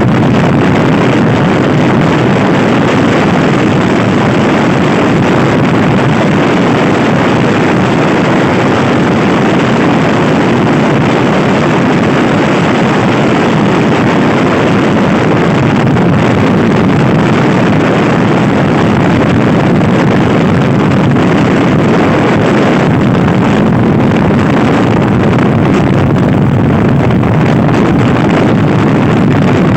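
Loud, steady wind rushing and buffeting over the microphone of a Honda Scoopy i scooter ridden at speed, with the scooter's running noise mixed underneath.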